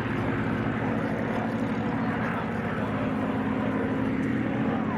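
Piston-engined propeller aircraft running steadily, an even engine drone.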